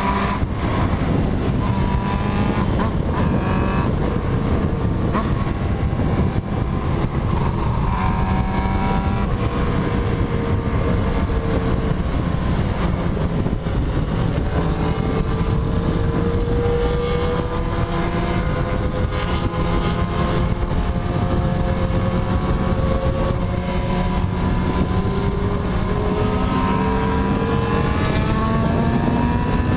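Motorcycle engine heard on board while riding, its pitch rising and falling slowly with the throttle, under steady wind rush.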